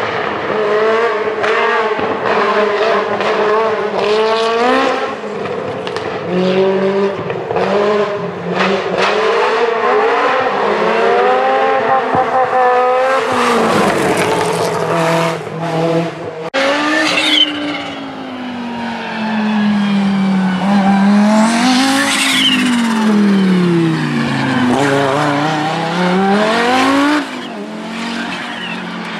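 Group B rally car engines revving hard, the pitch climbing and dropping again and again through gear changes and lifts. About halfway the sound switches abruptly to another stretch of engine noise.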